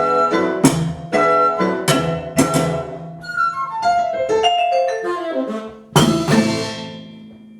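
Tuned mallet percussion playing: repeated struck chords, a run of single notes stepping downward, then a final chord about six seconds in that rings on and fades away.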